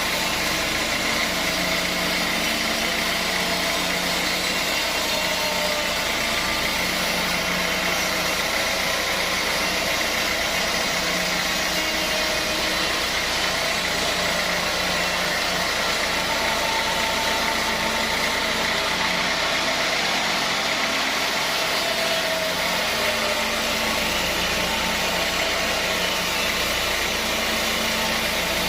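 Sawmill machinery running steadily, an even mechanical hum with no separate cutting strokes.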